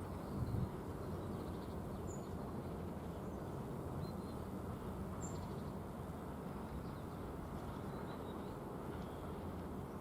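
Steady low rumble of a long freight train passing at a distance, with a few faint bird chirps over it.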